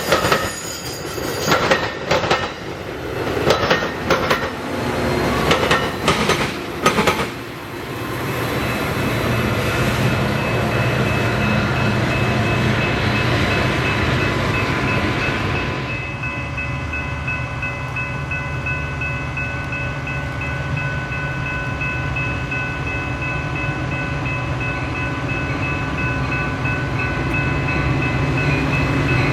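Train passing close by. The wheels clatter over rail joints in quick knocks for the first several seconds. Then it settles into a steady rolling rumble with a sustained high thin whine over it.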